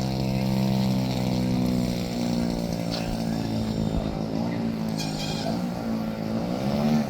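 Giant-scale RC airplane's gasoline engine and propeller idling steadily, with a brief blip of throttle near the end.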